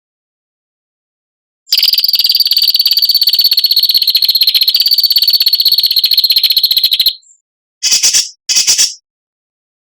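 A songbird's long, rapid, harsh buzzing trill, starting about two seconds in and lasting some five seconds, then two short bursts of the same trill. This is the 'besetan' call used in masteran recordings to teach captive songbirds.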